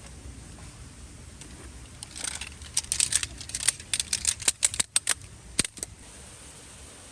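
A quick, irregular run of sharp clicks and clinks from small hard objects being handled, lasting about three seconds from about two seconds in, over a steady low rumble.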